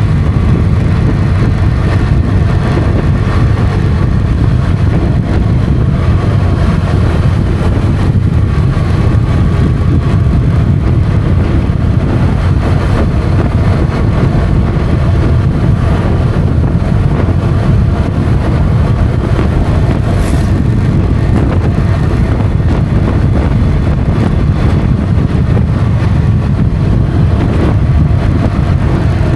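Motorcycle engine running steadily while riding at speed, with a heavy low wind rumble on the microphone.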